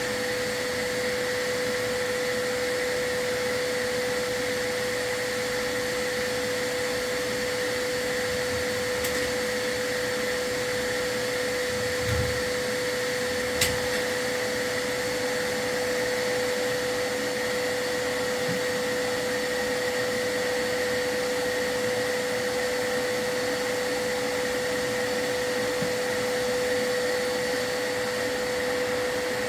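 A chimney sweep's vacuum runs steadily with a constant whine over its rushing air. Two short knocks come around the middle.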